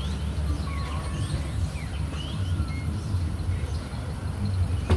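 Birds chirping in many short, quick calls over a steady low rumble of wind on the microphone, with a sharp click near the end.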